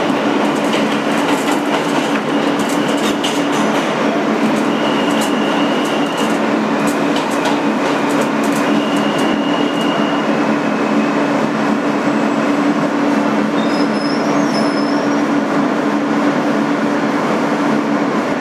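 Inside a 2008 Kawasaki R-160B subway car: a steady, even noise under a low two-note hum, with scattered clicks and a few brief faint high whines.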